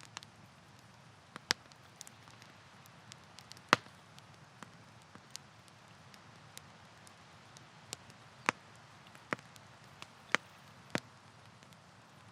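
Campfire crackling: sharp, irregular pops and snaps of burning wood over a faint steady hiss, the loudest pop about four seconds in.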